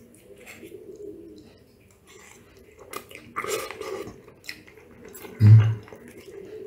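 A person eating pasta: soft chewing and mouth sounds, with a few light clinks of a fork and spoon against a plate. About five and a half seconds in there is a short low hum of the voice.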